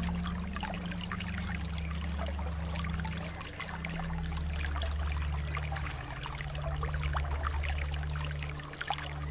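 Water trickling and splashing like a small stream, over a low droning tone that shifts pitch slowly every second or two.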